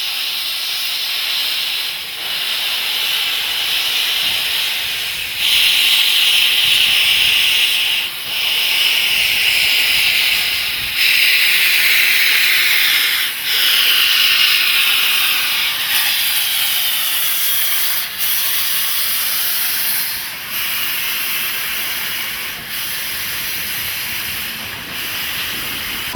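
A Class 15F steam locomotive venting steam: a loud, steady, high hiss that jumps up or down in loudness every few seconds.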